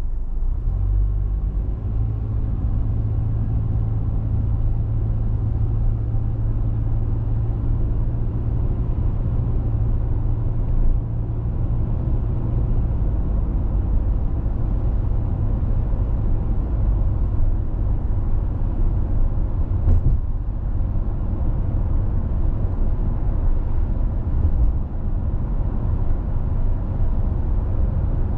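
Car driving along a road: steady low rumble of tyres and engine, with a steady engine hum that fades about halfway through, and one short knock about twenty seconds in.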